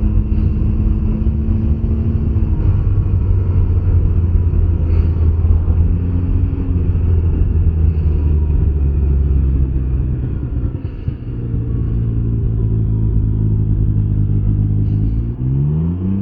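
Can-Am Ryker 900 three-wheeler's three-cylinder engine running while riding at a steady speed, with a brief drop in loudness about eleven seconds in, then revving up with a rising pitch near the end.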